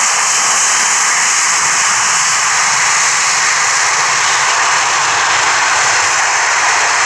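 Jet airliner engines running with a steady, loud noise, without change in pitch.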